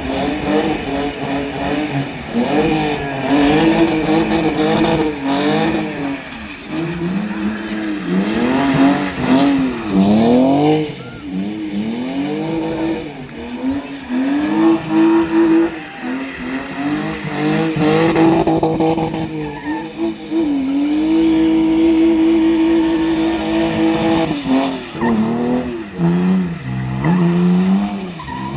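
V8 muscle car doing a burnout: the engine revs up and falls back again and again, then holds high revs for a few seconds about three-quarters of the way through, with the tyres spinning and squealing.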